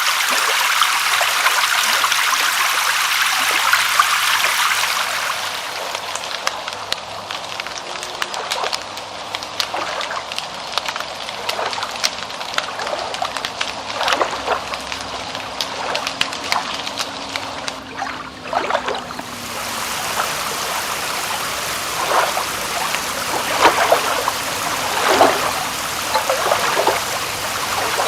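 Rain falling with water trickling and splashing. A dense, even hiss eases about five seconds in, leaving scattered drips and splashes, then returns about twenty seconds in.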